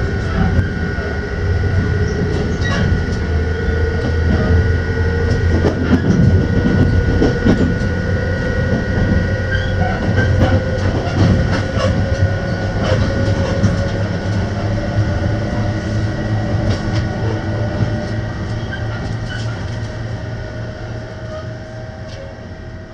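Running noise heard inside a locomotive-hauled passenger car of the Utage tatami-room train: a steady rumble of wheels on rail with scattered clicks as the wheels cross rail joints and points, and a faint tone that slowly rises in pitch. The noise grows quieter near the end.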